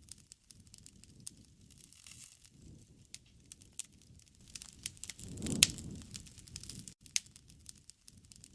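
Wood fire crackling, with irregular sharp pops and snaps; the loudest pop comes about five and a half seconds in, over a brief low rush.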